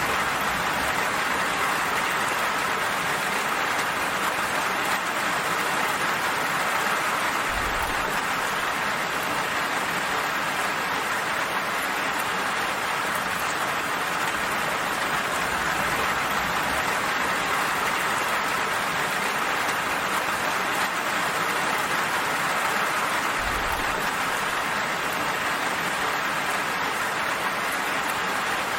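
Steady, even rainfall pattering on surfaces, with no breaks.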